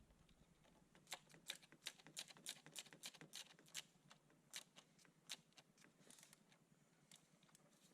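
Faint, irregular light clicks and taps, about two or three a second for around four seconds before they thin out.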